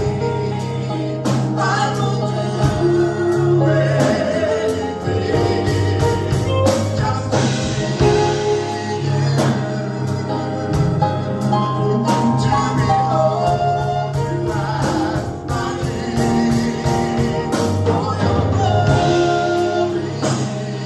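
Gospel praise band and choir performing a worship song: sung vocals over bass, keys and a steady drum beat.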